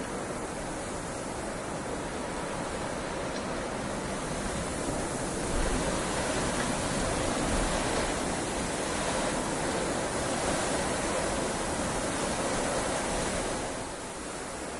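Heavy rain falling, a dense steady hiss that swells louder about five seconds in and eases back near the end.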